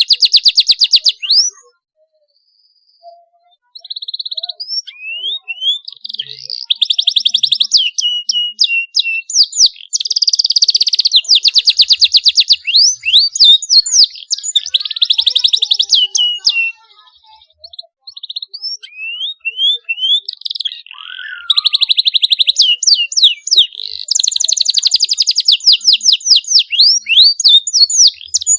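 Canary singing: fast, high trilled rolls alternating with quick rising and falling whistled notes, in bursts broken by short pauses, the longest about two seconds in and another about seventeen seconds in.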